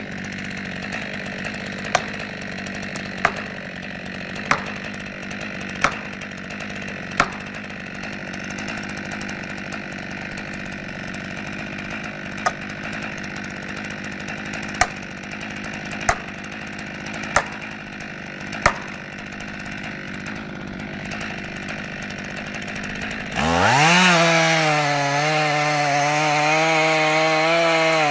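Chainsaw engine running at a lower steady pitch, with sharp clicks about every second and a half. Near the end it revs up suddenly to full throttle and holds a loud, slightly wavering pitch.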